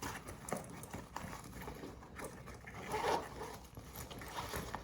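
Quiet rustling and small clicks of a tactical backpack being handled as it is opened through its zippers to reach inside, with a slightly louder rustle about three seconds in.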